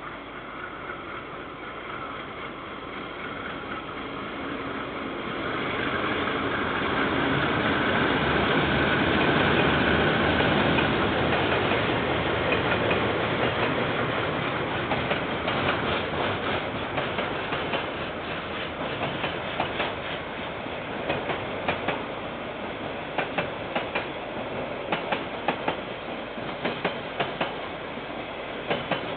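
KiwiRail diesel-hauled freight train passing. The locomotive's engine grows louder over the first few seconds, peaks, and then fades. After that the wagons roll by with a long, uneven run of wheel clicks over the rail joints.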